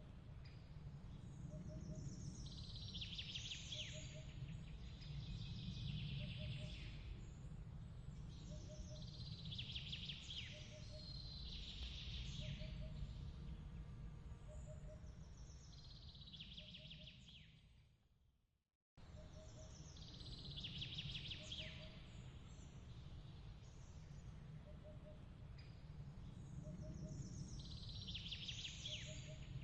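Layered nighttime ambience: clusters of high chirping calls every four or five seconds over a steady low rumble, with faint short pips about once a second. About two-thirds of the way through it fades out to silence, then the same loop starts again abruptly.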